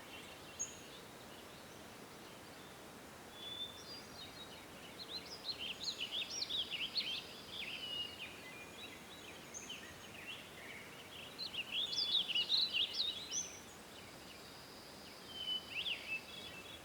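Songbirds singing in three spells of quick, rising and falling chirps over a faint steady background hiss.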